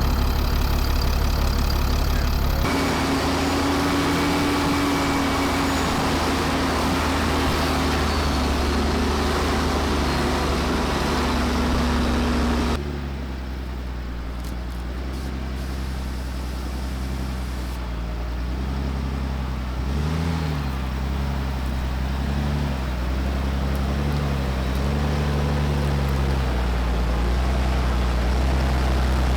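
Diesel engine of a Ram 5500 off-road wrecker running at low speed as the truck crawls over rough ground. The pitch wavers up and down with the throttle in the second half, and the sound changes abruptly twice, about three and thirteen seconds in.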